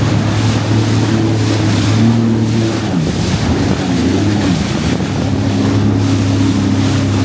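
Jet ski engine running at speed over water, its note dipping and wavering about three seconds in before steadying again, with water rushing and wind buffeting the microphone.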